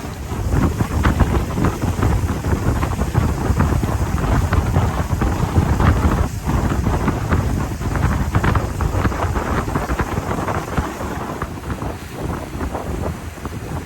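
Wind buffeting the microphone aboard a moving river boat: a loud low rumble with constant irregular gusty crackle.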